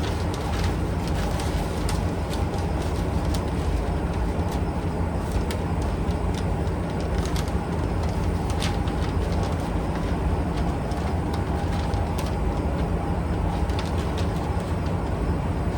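Steady low mechanical rumble with scattered sharp clicks and ticks over it.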